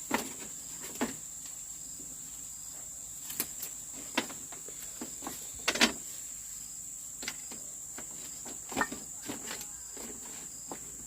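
A steady high-pitched insect drone, like crickets or cicadas, with scattered sharp clicks and knocks over it. The loudest knock comes near the middle.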